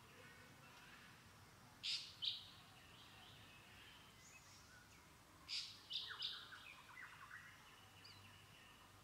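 Birds calling: two short, high, bright calls about two seconds in, then three more around the middle, followed by a string of fainter falling chirps.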